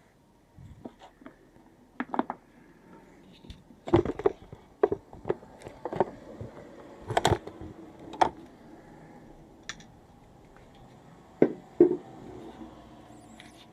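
Scattered knocks and clicks of hands working on parts and tools, irregular and sometimes in quick pairs, the loudest knocks about four, seven and twelve seconds in. No engine is running.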